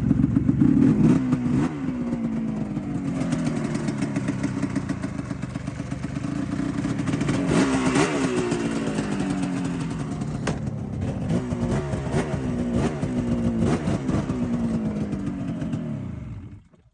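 Yamaha SRX 700 snowmobile's three-cylinder two-stroke engine running through its stock exhaust, revved again and again with throttle blips. It stops abruptly near the end.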